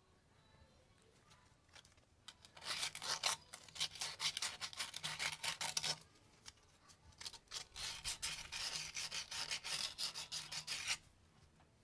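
Rapid back-and-forth rasping strokes of a hand tool rubbing a hard surface, in two bouts of a few seconds each. The first starts about two and a half seconds in, and the second follows a short pause near the middle.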